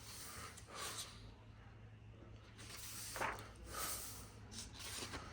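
Pages of a hardcover book being turned: a few faint papery swishes over a low steady hum.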